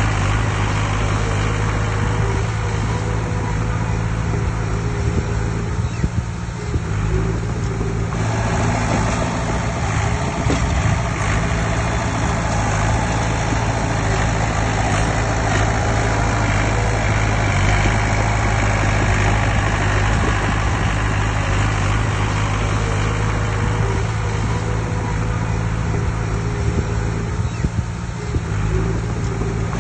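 A heavy diesel engine on earthmoving equipment runs steadily with a deep, even drone. From about eight seconds in, a heavier working noise joins it in the middle range.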